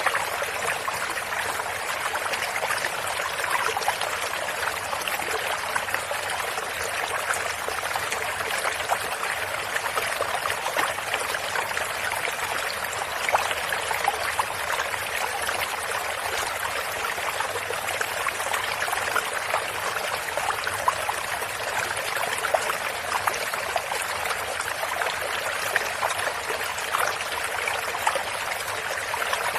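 A stream of water running over stones, a steady babbling with many small splashes.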